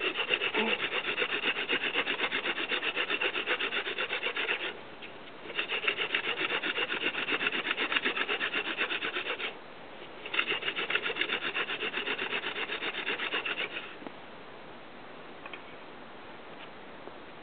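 Hand-drill fire-making with Xanthorrhoea (grass tree) flower spike: the spindle twirled between the palms, its tip scraping in the Xanthorrhoea hearth in a fast, even rubbing, grinding out the smoking dust that builds into an ember. Three runs of drilling of about four seconds each with short breaks between, stopping about two-thirds of the way through.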